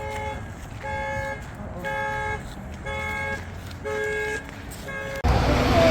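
Car alarm sounding its two-tone horn over and over, a half-second blast about once a second. About five seconds in, it cuts to a loud low rumble of wind on the microphone.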